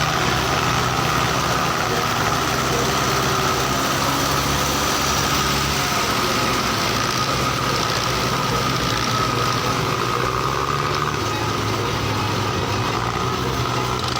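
Belarus 510 tractor's diesel engine running steadily, with a steady high whine over the low engine note.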